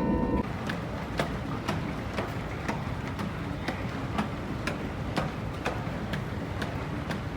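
Airliner cabin noise after landing with a regular ticking, about two ticks a second.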